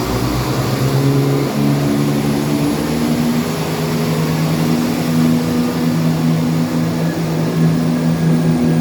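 A CrossCountry Class 170 Turbostar diesel multiple unit's underfloor diesel engines power up as the train pulls away from the platform. The engine note rises in pitch over the first few seconds, then holds at a steady drone.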